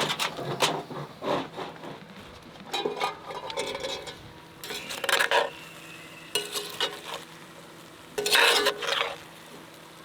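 A metal utensil scraping and clinking against a cooking pan in about six separate bursts, one ringing briefly, over food sizzling faintly.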